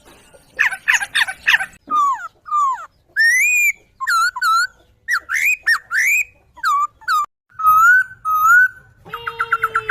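Poksay (laughingthrush) song: a series of loud, clear whistled phrases with notes sliding up and down, separated by short pauses, breaking into a fast run of rapid repeated notes near the end.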